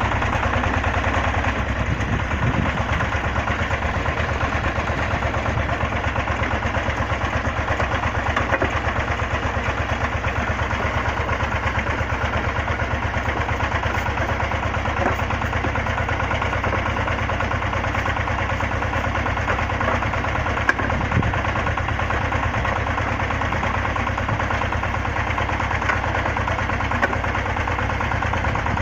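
Engine of an XY-3 water well drilling rig running steadily, with an even low pulse, and a single sharp knock about two-thirds of the way in.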